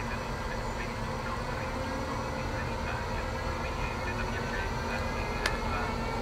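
Electric locomotive hauling a train slowly past: a steady low rumble of wheels on rail with a faint whine that rises slightly, and one sharp click about five and a half seconds in.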